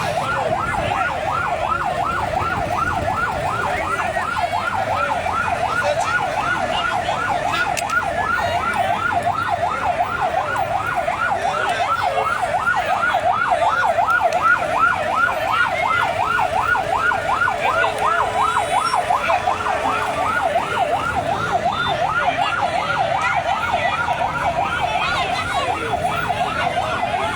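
Police vehicle siren in a fast yelp, its pitch sweeping up and down about three times a second without a break.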